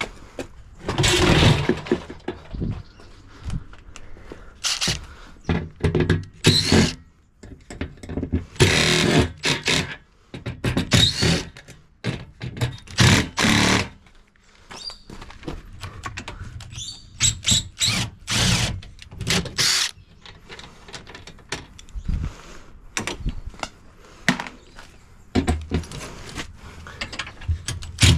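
Irregular clunks, knocks and scrapes of a dishwasher being dismantled by hand, its steel and plastic parts pulled off and handled with tools.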